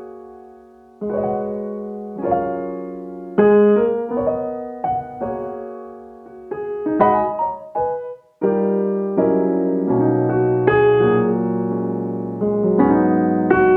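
Background music: piano, with chords and notes struck and left to fade, and a short break a little after eight seconds.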